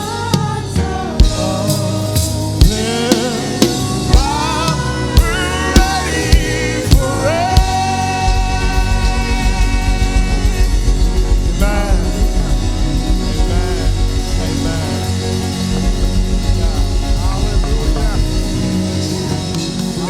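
Live gospel worship music: a vocal group singing with a band, with sharp drum hits through the first several seconds, then a long held sung note over a sustained deep bass from about eight seconds in.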